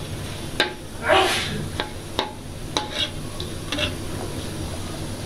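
Piyaji (lentil-and-onion fritters) sizzling as they deep-fry in hot oil, while a slotted spatula stirs them and knocks against the pan several times.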